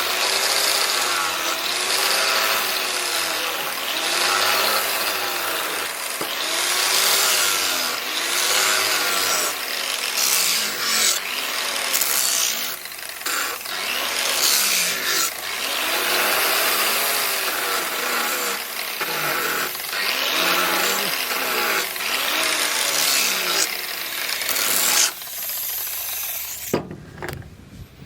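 Repeated back-and-forth abrasive strokes of hand filing or sanding on the machete, about one stroke a second, each stroke rising and falling in pitch. It stops abruptly near the end.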